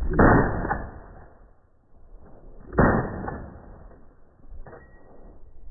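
Three gunshots, each a sharp report that fades over about a second: one at the start, one nearly three seconds in, and a weaker one near the end.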